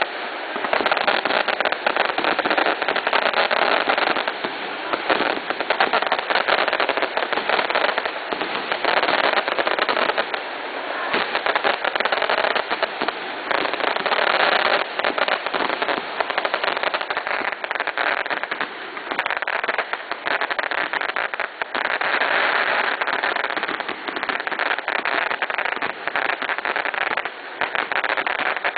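Fireworks crackling and popping in a dense, unbroken stream, rising and falling in loudness in spells.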